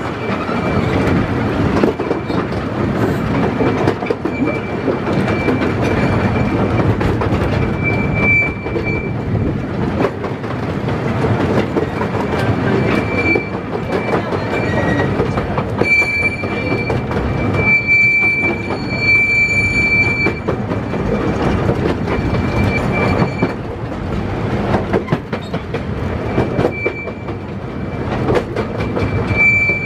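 Miniature railway train running along its track: a steady rumble of wheels on rail with scattered clicks from the rail joints. A high-pitched wheel squeal comes and goes throughout, strongest from about 16 to 20 seconds in.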